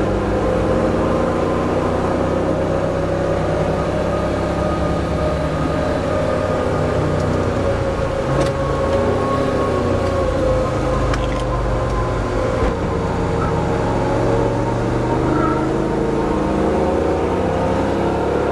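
De Tomaso Pantera's mid-mounted Ford V8 running steadily under way, heard from inside the cabin. Its pitch sags and rises gently with the throttle.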